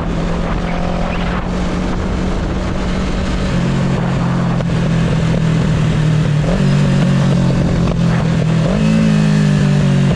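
Motorcycle engine running under way as the bike is ridden, its note steady and then stepping up in pitch twice as the rider opens the throttle, about two-thirds through and near the end.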